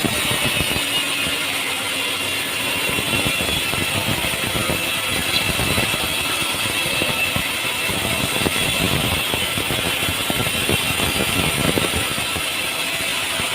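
Machinery running steadily: engine noise with irregular rattling.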